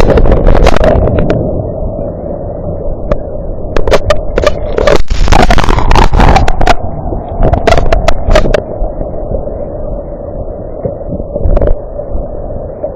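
Storm wind gusting hard against a security camera's microphone, a heavy rumble that swells and eases, with sharp knocks and rattles scattered through, thickest from about four to nine seconds in.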